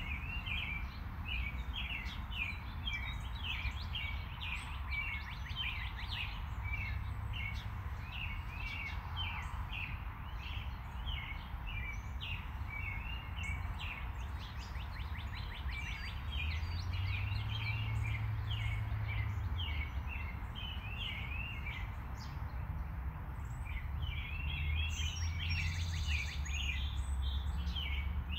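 Small birds chirping busily, many quick high chirps in a row, with a brief lull about three quarters of the way through. A steady low rumble lies underneath and swells twice.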